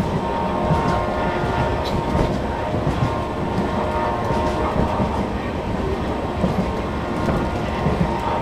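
Moving train's wheels running on the rails: a steady rumble with a faint steady whine and a few scattered sharp clicks.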